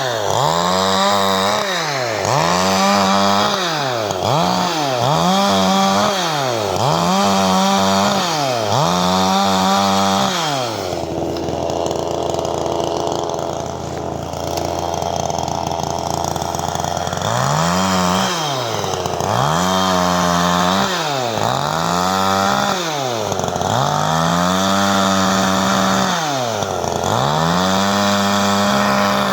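CanFly 54.6 cc two-stroke chainsaw being revved again and again, each blip climbing to a high whine, holding briefly and dropping back. It settles to a steady idle for several seconds in the middle, then the revving resumes.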